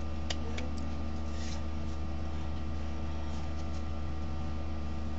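Steady low electrical hum of room or recording noise, with a few faint clicks in the first second.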